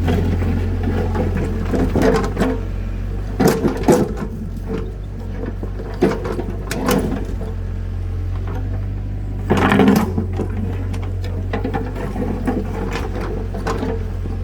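Small tractor's engine running steadily with a fast chugging pulse, with a few sharp knocks and clatters over it.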